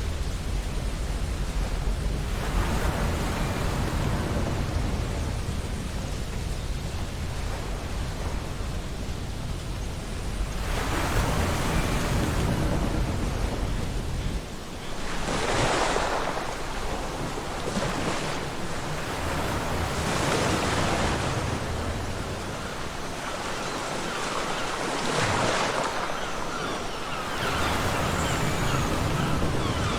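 Ocean surf washing onto a beach, swelling and easing every few seconds. A low wind rumble drops away about halfway through.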